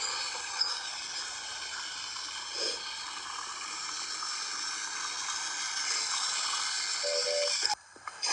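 Steady hissing from the Thomas and Friends racing game's sound effects, like steam escaping, with a short tone near the end before it cuts off suddenly.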